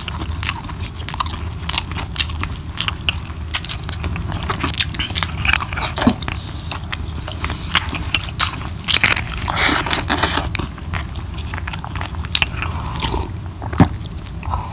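A person chewing a mouthful of chicken curry and rice, close to a clip-on microphone: a steady run of short, wet mouth clicks.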